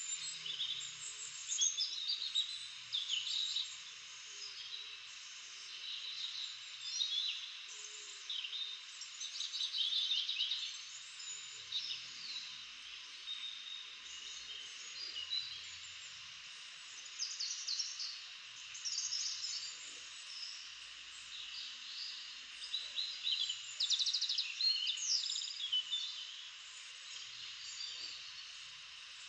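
Birds chirping and trilling in many short calls over a steady background hiss.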